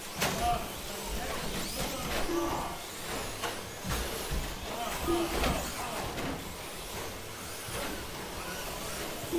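Electric 1/10 RC short course trucks with 13.5-turn brushless motors racing: high-pitched motor whines rising and falling, with clatter and knocks from the trucks landing and hitting the track. Short beeps sound every few seconds.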